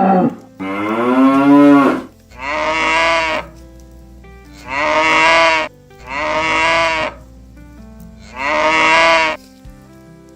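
Cattle mooing: a call tailing off at the start, a longer call rising in pitch, then four similar moos of about a second each with short gaps between.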